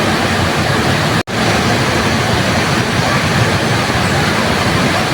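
Waterfall: a steady, loud rush of falling water that cuts out for an instant about a second in, then carries on.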